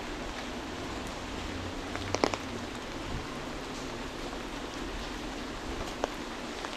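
Steady hiss of rain falling on wet pavement. A few sharp drip taps stand out, a quick cluster about two seconds in and another tap near the end.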